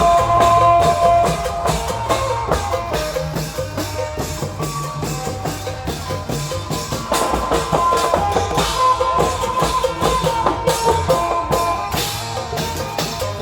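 Isan klong yao (long drum) band playing: a steady pounding of drums and percussion under a sustained, shifting melody line.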